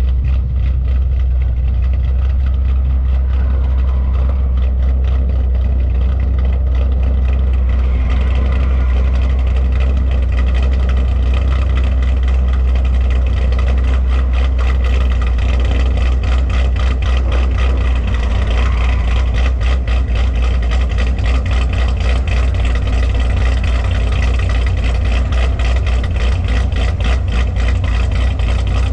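A V8 car engine idling steadily, with a fast, even pulsing and a strong low rumble.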